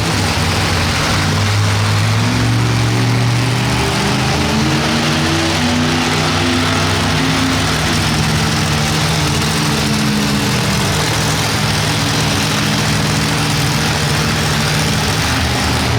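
Monster truck engine running loud, its pitch rising in the first couple of seconds, then dropping and settling lower about halfway through.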